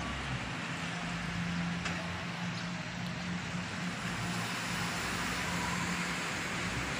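Steady rain falling onto standing floodwater, an even hiss, with a steady low hum underneath from about half a second in.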